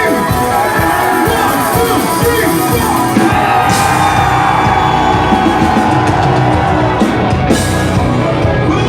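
Live rock band playing loudly through a concert PA, recorded from the audience, with a long held high note through the middle.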